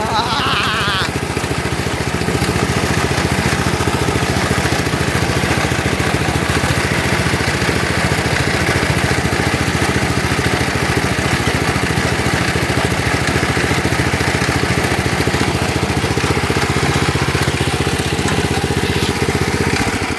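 Lawn tractor's small engine running steadily at a constant speed. Its cooling fan has broken off inside and the engine spins it against the plastic, which the owner says gives the running engine an extra rubbing sound.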